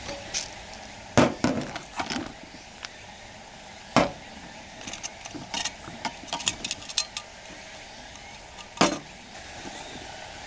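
Camp gear being handled: a few sharp knocks and clinks, the loudest just over a second in, about four seconds in and near the end, with a run of lighter clinks in between.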